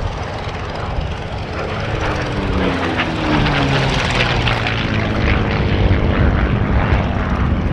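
Merlin V12 engine of a P-51 Mustang flying past. Its note drops in pitch as it goes by, about two seconds in, and the sound grows louder again toward the end.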